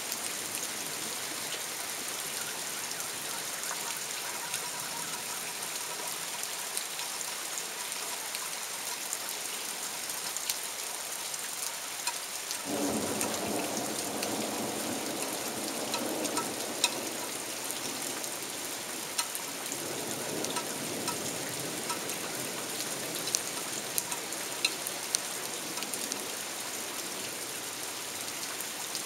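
Heavy torrential rain falling steadily, with scattered sharp drops landing close by. About halfway through, a thunder rumble starts suddenly and rolls on for several seconds, followed by a second, weaker roll.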